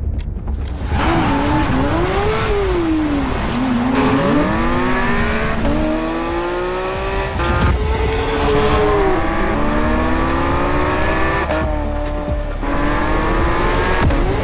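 Car engine revving hard, its pitch swinging up and down at first and then climbing in several long pulls with short breaks between, over background music.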